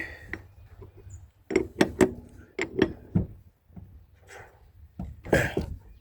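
A handful of sharp knocks and clatters, several in quick succession about one and a half to three seconds in, then a louder scraping clatter near the end.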